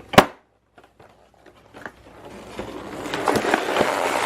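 A sharp click, then about two seconds of near silence, then scraping and rustling with small clicks that grows louder: something being worked at or pried by hand.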